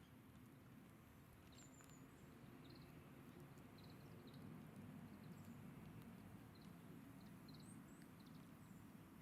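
Faint, short, high chirps of small birds scattered throughout, over a low steady rumble.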